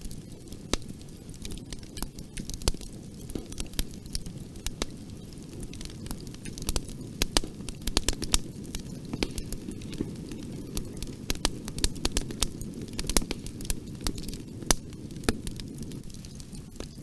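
Wood fire burning in a fireplace: a steady low rumble of flames with frequent sharp, irregular crackles and pops, busier in the middle.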